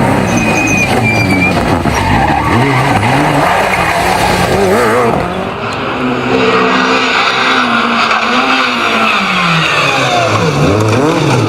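Rally car engines revving hard, their pitch climbing and falling again and again through gear changes and lifts of the throttle, with tyres skidding. The sound changes character about five seconds in.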